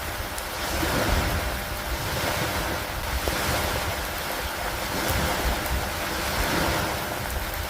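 Steady heavy rain with wind and a low rumble underneath, swelling and easing about every two seconds.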